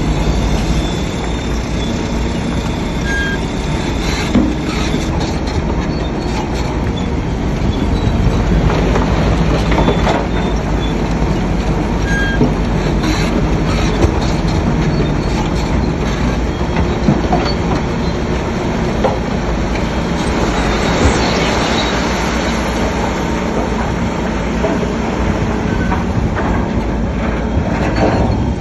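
Crawler bulldozer working: a steady diesel engine rumble, with its steel tracks clanking and squealing.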